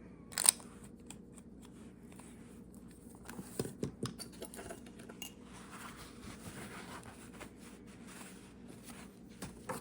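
Small handling sounds at a desk: a sharp click about half a second in, then scattered light clicks and taps, and a soft scratchy hiss.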